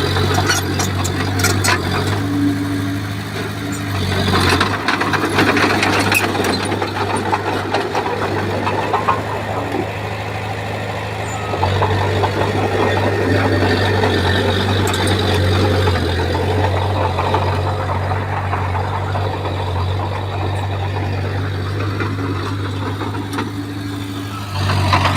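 Komatsu bulldozer's diesel engine running steadily under load, growing louder about four seconds in and again near the middle, with metal clanks and rattles in the first few seconds.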